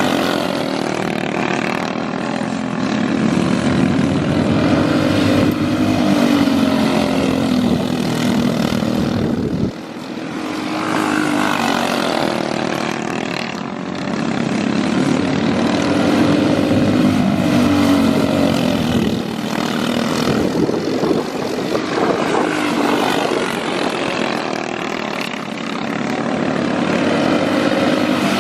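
Racing outlaw kart engines at speed, the engine note rising and falling in long swells as the karts lap the dirt track, with a sudden break about ten seconds in.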